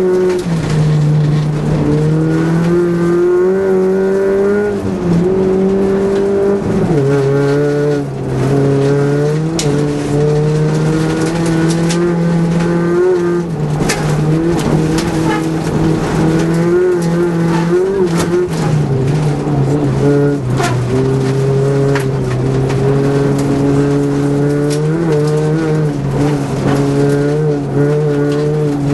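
Rally car engine under hard acceleration, heard from inside the cabin. Its pitch climbs and then drops back repeatedly as the gears change. A few sharp knocks come through along the way.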